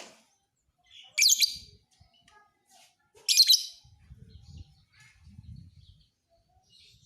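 Lovebird singing: two loud bursts of rapid, high-pitched chattering chirps, about a second and about three seconds in, with fainter scattered chirps between them.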